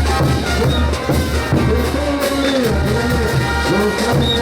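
Bolivian brass band playing ch'uta dance music: a brass melody over a steady bass and drums, with cymbal crashes.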